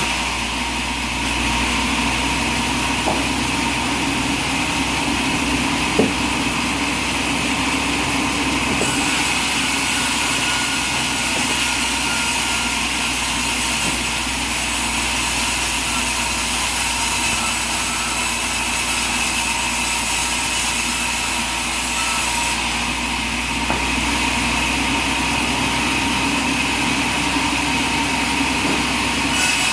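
Sawmill machinery running steadily, an even machine drone with a steady high whine. There is a sharp click about six seconds in.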